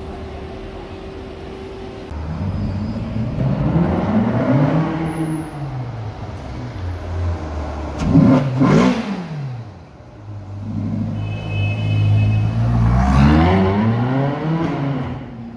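Ferrari California's V8 engine pulling away and accelerating, its pitch climbing and dropping back through the gears, with a quick sharp rev about eight seconds in and a second run of acceleration past close by near the end.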